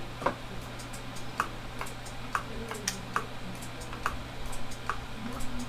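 Turn-signal flasher on a 1952 Greyhound coach's tailgate lighting, clicking as the blinkers flash: a run of short sharp clicks, about one or two a second.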